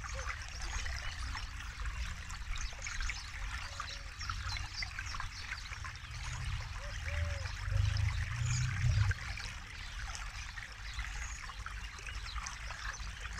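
River water flowing over stones: steady babbling and trickling with small gurgles. A deeper low rush swells for a few seconds past the middle, then eases.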